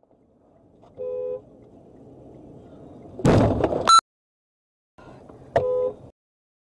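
Car horn honking briefly over driving road noise. A little past the middle comes a loud, harsh burst of noise lasting under a second, which sounds like a collision. Near the end the car horn honks once more.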